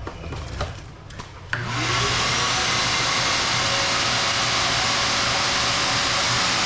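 A few light knocks, then an electric vacuum-type motor switches on about a second and a half in, its whine rising as it spins up, and runs steadily with a loud rush of air.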